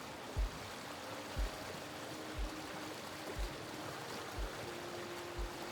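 Running stream water, with soft background music beneath it: faint held notes and a low beat about once a second.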